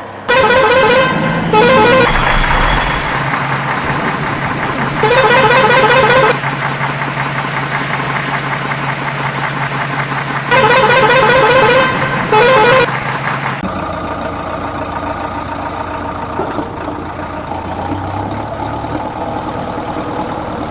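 A toy vehicle's electronic horn, sounding in five short warbling bursts over a steady low hum. The hum stops about two-thirds of the way in.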